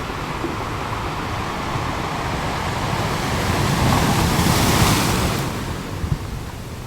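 Ocean waves: a steady wash of surf with one wave building, breaking about halfway through, and fading away.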